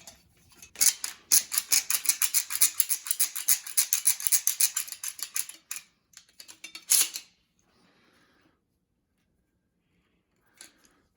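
Caulking gun worked empty with its tube out: a rapid run of sharp metallic clicks for about five seconds, then a short burst of clicks near seven seconds. The plunger isn't advancing properly because the gun's spring is worn out and shredded.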